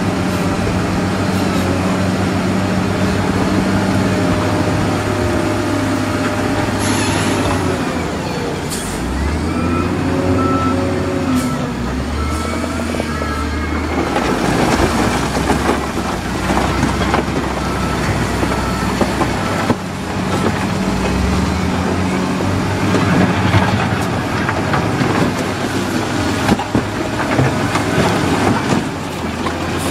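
Heavy diesel earthmoving machinery, a bulldozer and dump trucks, running under load. The engine note rises and falls repeatedly, and there is a brief hiss about seven seconds in.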